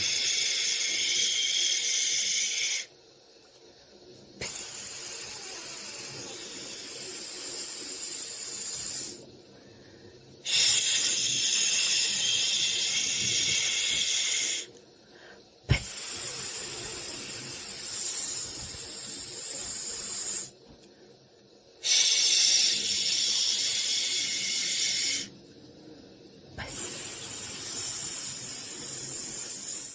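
White-noise shushing hiss, high and airy, sounding in stretches of three to five seconds separated by gaps of about a second of near silence.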